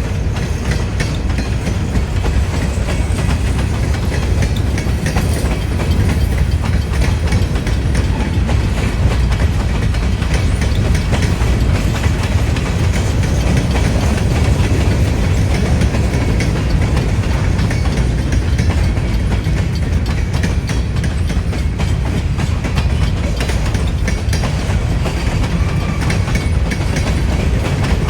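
Freight train cars rolling steadily past, wheels clacking over the rail joints, with wind buffeting the microphone.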